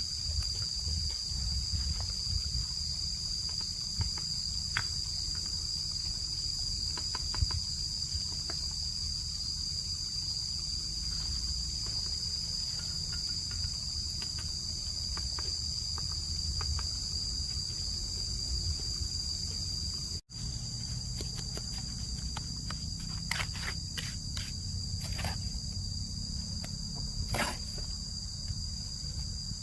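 Insects chirring in a steady, high chorus, with a low rumble beneath. Scattered sharp clicks and knocks come through, more often in the last third after a brief dropout.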